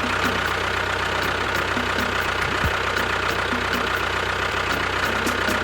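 A small engine or motor running steadily at idle, with a low hum and faint, evenly spaced ticking.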